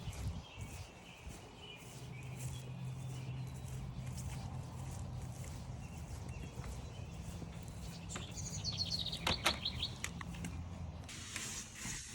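Footsteps crunching along a trail over a steady low hum. A bird sings a quick run of notes falling in pitch about eight seconds in.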